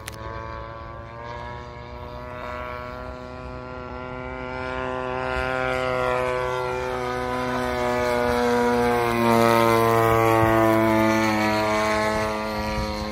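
Radio-controlled model airplane's propeller engine flying past: one engine note grows louder to a peak about two-thirds of the way through, its pitch sliding down as it passes, then fading.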